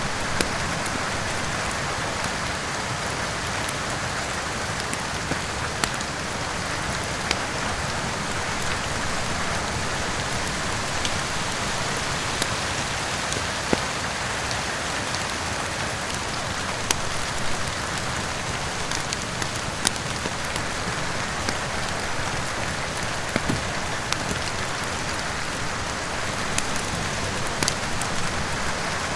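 Steady heavy rain, with scattered sharp pops and crackles of a wood fire burning in a fireplace at irregular moments.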